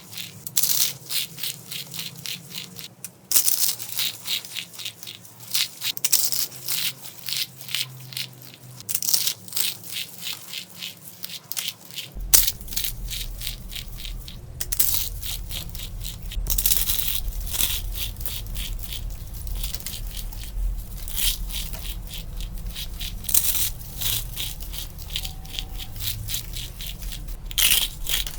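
Dry bar soap being crushed, a dense run of crunching and crackling as it crumbles apart, in loud clusters one after another.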